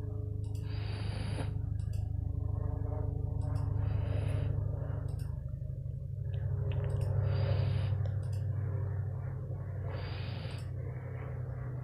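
A dog snoring: a low, fluttering rumble that swells and fades with each breath, with an airy hiss on four breaths about three seconds apart.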